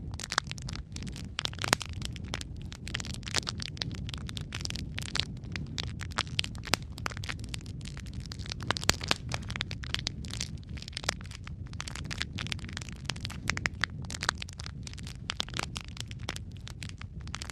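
Wood fire in a fireplace crackling: a steady low rumble of flames under dense, irregular sharp pops and snaps.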